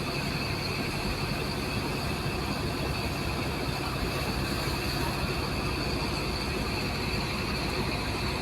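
High-pressure water jet from a heavy-duty hose blasting into compacted sand: a steady hiss and rush of water over a low, even machine hum.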